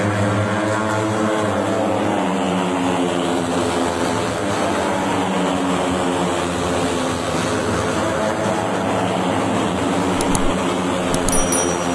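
Racing motorcycle engines running, their pitch sliding down and up with the revs. A few sharp clicks near the end.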